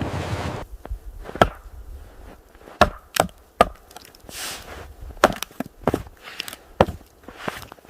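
Sharp knocks on wood, about ten irregular strikes, some coming in quick runs of two or three.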